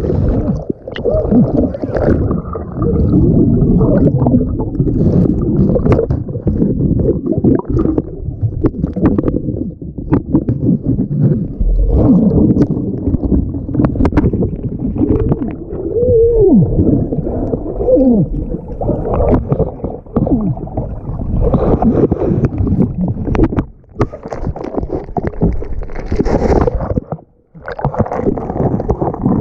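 Muffled water gurgling and sloshing around a capsized canoe, loud and continuous, with a few wavering tones about halfway through.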